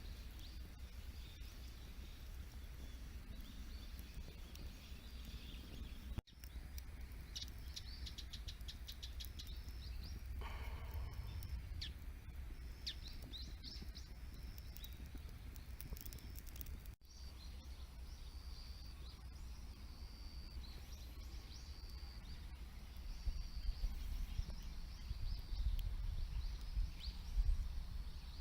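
Birds chirping over a steady low rumble, with a few faint ticks. The sound drops out for an instant twice, about six and seventeen seconds in.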